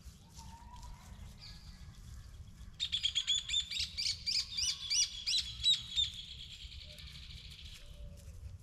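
A songbird singing a quick run of high chirps, about five a second, starting about three seconds in and lasting some three seconds, over a steady low rumble.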